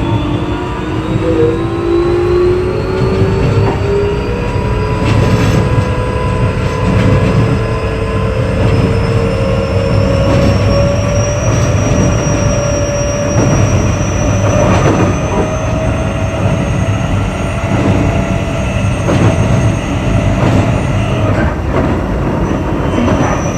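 Keio 8000 series electric train under way: its traction motors whine in several tones that climb steadily as it accelerates, levelling off near the end, over steady wheel-and-rail rumble. Occasional knocks come from the wheels passing over rail joints.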